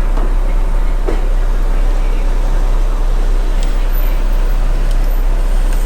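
Toyota MR2 Spyder's V6 engine idling steadily, a constant low hum with no change in revs, with faint voices in the background.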